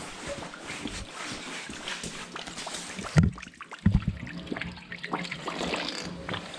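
Water running and trickling out of a water heater being drained through a hose, with two heavy knocks a little after three and four seconds in.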